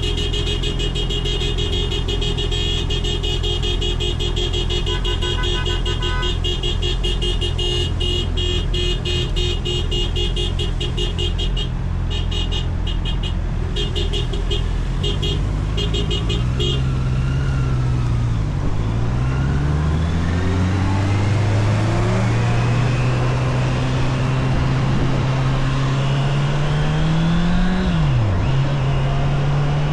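Honda CBR650R inline-four engine, running at a low steady note at first. About halfway it accelerates, its pitch climbing and dropping sharply at each gear change.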